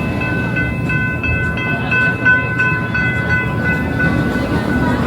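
Narrow-gauge steam train running, heard from aboard: a steady low rumble with a high ringing tone held over it and a regular clicking about three times a second.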